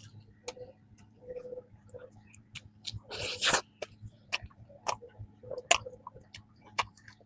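Close-up chewing of crisp, flaky pastry: a run of sharp crunches and clicks, with one louder, longer crunch about three seconds in.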